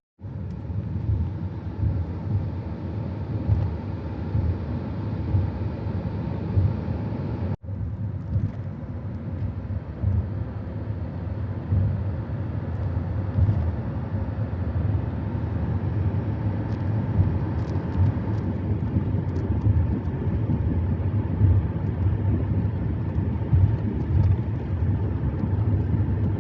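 Steady low rumble of a vehicle driving at road speed, with tyre and engine noise heard from inside the moving car. There is a split-second dropout about seven and a half seconds in.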